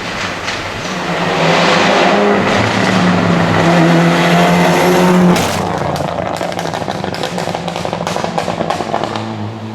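Historic rally car's engine pulling hard on a special stage, holding high revs for a few seconds before the throttle shuts abruptly a little past halfway, followed by a rapid run of sharp crackles as the car carries on.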